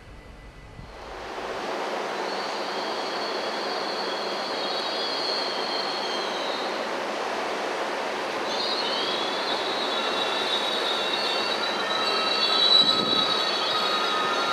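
A DB Class 643 Talent diesel railcar rolling past with its wheels squealing on the rails. The rolling noise builds about a second in, and a high steady squeal sets in soon after, breaks off around the seventh second and comes back stronger.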